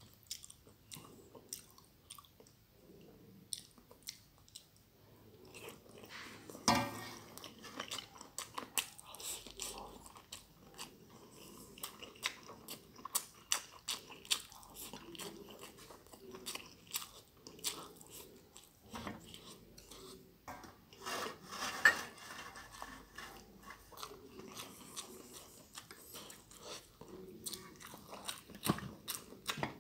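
Close-miked eating: a person chewing and biting mouthfuls of stir-fried glass noodles and goat meat, with many wet mouth clicks and smacks. The louder bites come about seven seconds in and again a little past twenty seconds.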